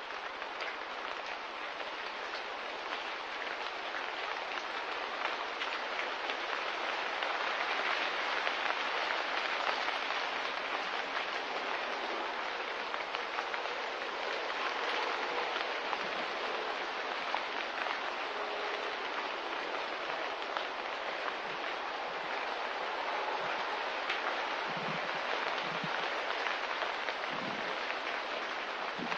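Steady hiss of light rain or drizzle with a fine patter of drops. A few soft low thumps come near the end.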